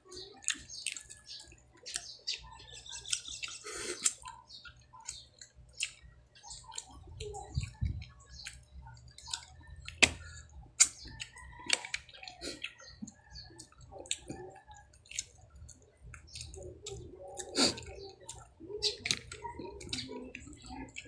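Close-miked eating of cooked green mussels: wet chewing and lip-smacking, with many short sharp clicks. The loudest click comes about ten seconds in.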